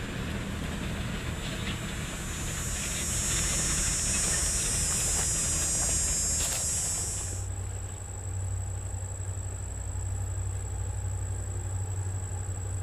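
The last cars of a streamlined passenger train rolling past and fading away, with a loud high hiss. About seven and a half seconds in, the sound cuts to a steady low hum from a distant approaching diesel locomotive.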